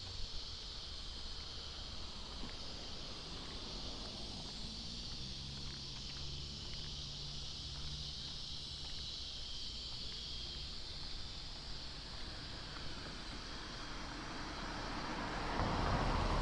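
A car drives past, growing louder near the end, over a steady outdoor background with a constant high-pitched hiss and a faint low engine hum.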